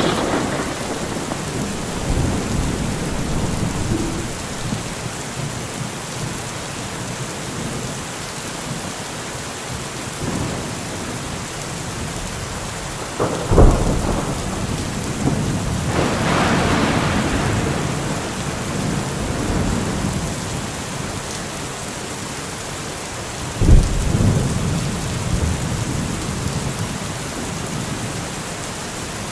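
Thunderstorm: steady heavy rain hissing, with rolling thunder and two loud sharp thunderclaps, about halfway through and again about a second later than three quarters through.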